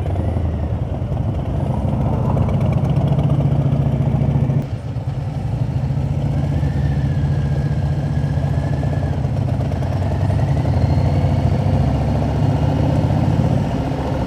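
Harley-Davidson V-twin motorcycle engine running steadily on the road, with a brief dip in level about five seconds in.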